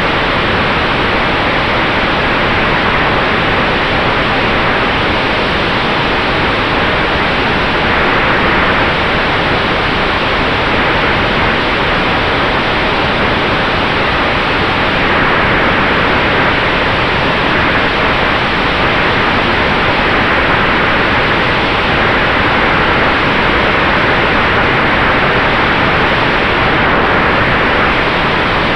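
Steady rush of air and propeller noise from an electric Sonex Xenos airplane in flight, loud and unchanging, with a faint steady whine running under it.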